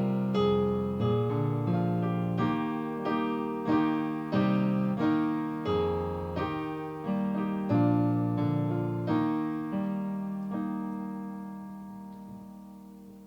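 Solo piano playing a slow, hymn-like passage of chords and melody notes. It slows toward the end and closes on a chord that fades away.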